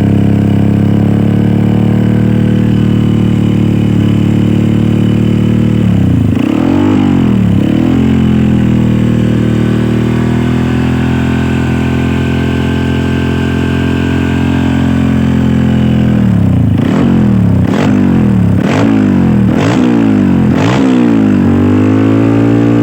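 Honda CRF motorcycle with a Norifumi RV1 aftermarket exhaust idling steadily, blipped twice about six seconds in, then revved in a quick run of about six throttle blips from about two-thirds through.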